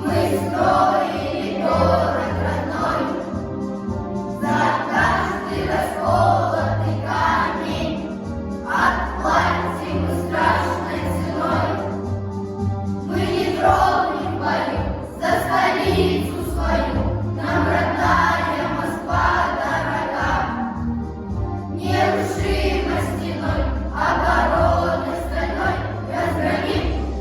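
A choir singing a song, several voices together over a steady instrumental accompaniment.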